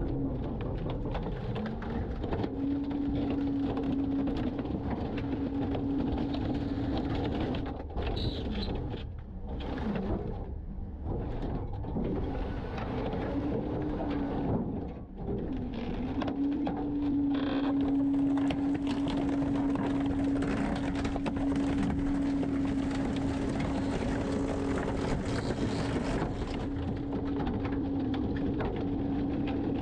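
Garbage truck engine and hydraulic packer running, with a steady whine that sags and climbs back a couple of times in the first half and then holds steady, as the packer compacts the load.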